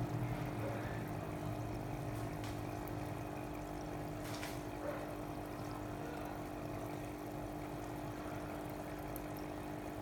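Water pouring and trickling over a steady pump hum.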